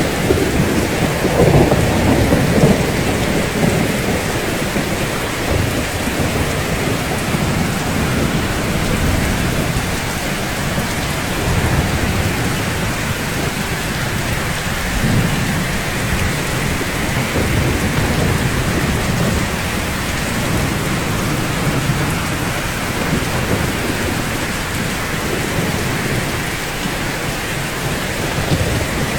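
Steady rain falling, with a low rumble underneath that swells in the first few seconds and again about halfway through.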